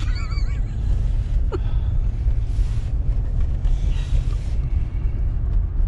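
Steady low rumble of a vehicle driving, heard from inside the cabin, with two brief hissing sweeps about halfway through.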